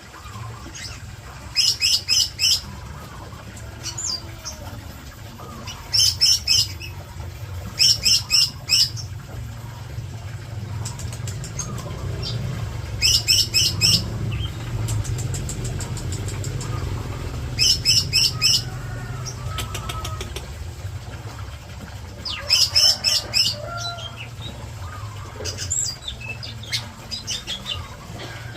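Green leafbirds (cucak ijo) in a breeding cage calling: bouts of four or five quick, high chirps, repeated every few seconds, over a steady low hum.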